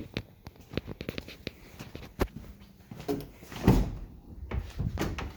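BMW E46 drift car's exhaust giving a string of irregular sharp pops and crackles over a faint low rumble, with a louder burst a little past halfway.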